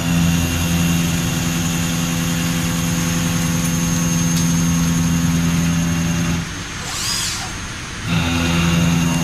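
Industrial machine motor running with a steady, pitched hum that cuts out about six seconds in. A brief high squeal follows, and the hum starts again about two seconds later.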